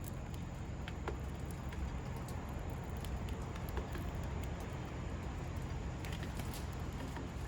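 Light scattered ticks and taps, typical of sparrows pecking and hopping about a bird feeder, over a steady low background rumble.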